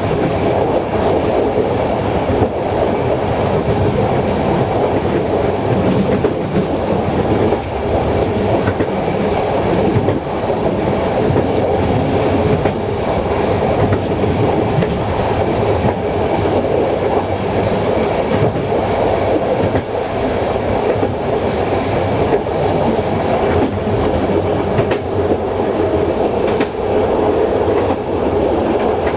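Passenger train running along the line, heard from its rear cab: a steady rumble of wheels on the rails with scattered clicks over the track.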